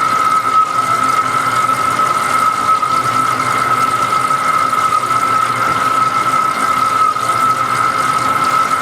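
Lathe turning a large pot-bearing part, with a steady high whine held level over a hiss of machining noise.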